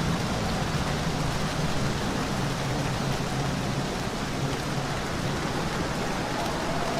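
Steady rain, an even hiss of rainfall. A faint steady tone comes in near the end.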